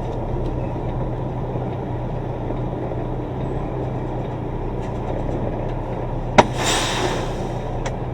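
Semi-truck diesel engine running steadily at low speed. About six and a half seconds in comes a sharp click followed by a short hiss lasting about a second.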